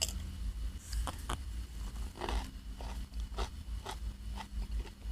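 Close-miked chewing and biting of spicy seafood papaya salad, with irregular crunches several times over a few seconds.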